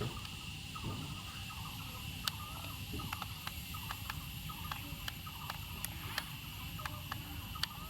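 A steady high insect-like drone, like crickets, with sharp clicks scattered through it and faint small chirps.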